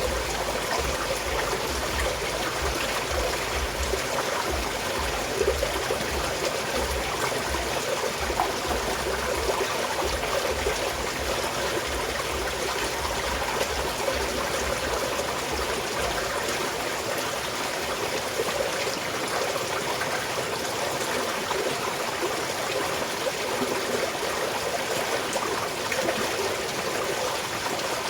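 Small mountain stream flowing and trickling steadily, a continuous splashing wash of water.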